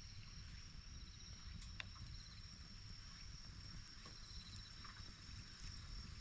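Faint outdoor ambience: a steady high whine with a faint pulsing trill just below it, a few scattered clicks, and a low rumble underneath.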